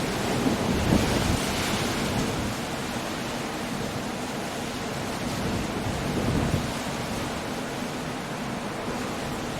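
Coastal storm: a steady rush of surf with wind and rain, as waves break louder about a second in and again around six and a half seconds.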